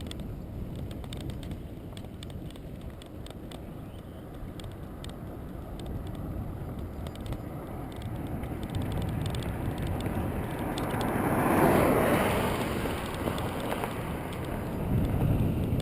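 Steady low outdoor rumble, like wind on the microphone, with a vehicle passing by that swells up and fades away, loudest about twelve seconds in.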